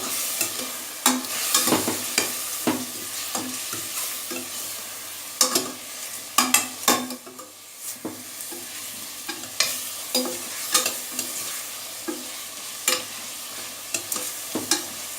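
Chicken pieces frying and sizzling in oil with coriander and turmeric powder, stirred with a spoon. The spoon scrapes and knocks against the pot at irregular intervals over the steady sizzle.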